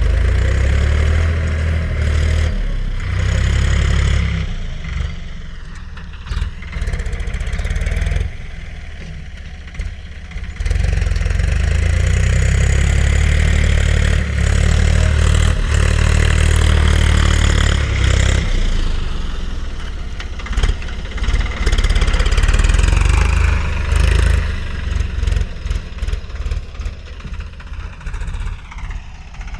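Swaraj 855 FE tractor's three-cylinder diesel engine running while it pulls a cultivator, with a heavy low rumble. The sound swells and fades several times and turns uneven near the end.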